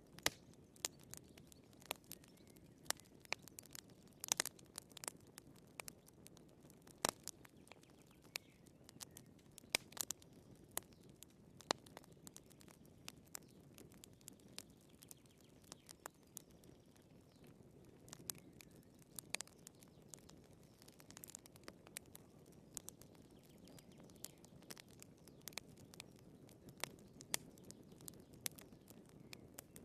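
Wood fire burning in a fireplace, crackling with irregular sharp pops over a low, soft rush of flame.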